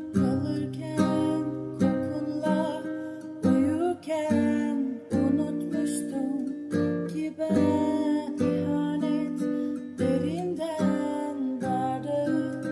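Instrumental song intro on strummed acoustic guitar, chords struck about once a second and left to ring.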